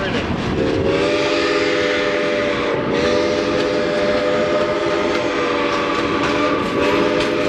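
Steam whistle of Iowa Interstate 2-10-2 No. 6988 blowing a chord of several notes: one long blast starting about half a second in, then two more after brief breaks.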